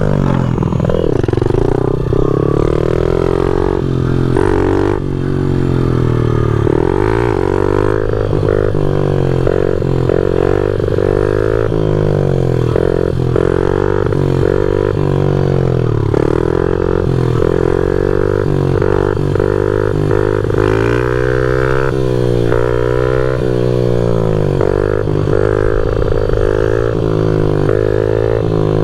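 A loud pit bike's single-cylinder four-stroke engine being ridden, its pitch climbing and falling over and over as the throttle is opened and closed.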